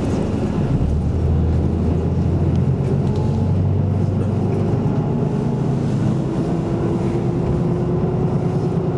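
Isuzu Erga Mio city bus heard from inside the cabin while under way: a steady low diesel engine and drivetrain note that strengthens about a second in. A faint whine rises slowly in pitch over the second half.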